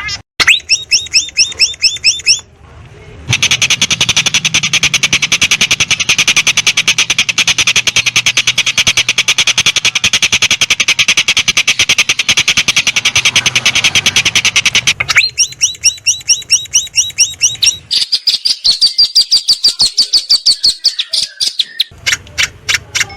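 Songbird calls in quick succession: rapid repeated chirps, then a long, fast, unbroken trill lasting about eleven seconds, then further quick high-pitched chattering phrases. They are bird songs used as training fill for a long-tailed shrike.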